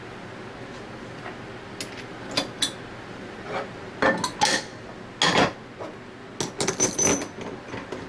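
Metal pump parts and tools being handled on a workbench: scattered clinks and knocks, thickening into a quick cluster over the second half, with a short metallic ring near the end.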